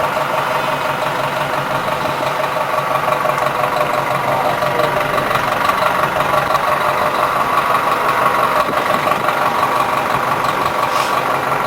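A steady mechanical drone with several held tones, like an engine running at idle.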